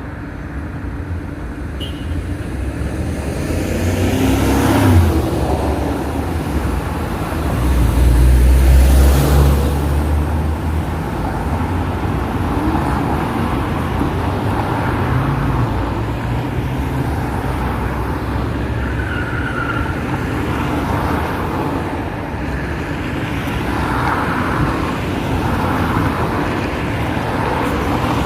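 Road traffic at a traffic signal: car engines and tyres rumbling, with two louder vehicles pulling away, one about five seconds in and a louder, deeper one about eight to ten seconds in.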